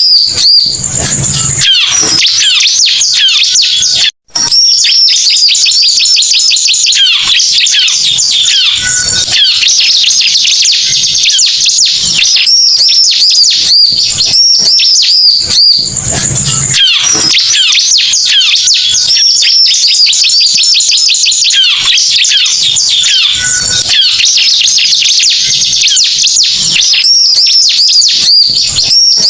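Bar-winged prinia (ciblek) song played as a bird-lure recording: loud, dense, rapid chattering trills and high whistled notes. The same sequence comes round again about every 15 seconds, and there is a brief cut just after four seconds in.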